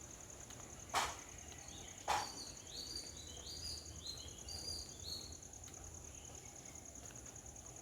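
Steady, high, pulsing insect chorus. Two sharp knocks come about a second apart, followed by a run of about eight short rising chirps.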